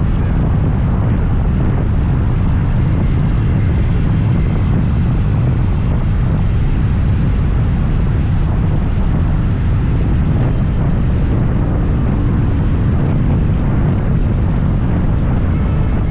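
Riding noise on a moving scooter: a steady, loud low rumble of wind buffeting the microphone, mixed with the scooter's running and road noise, unchanging throughout.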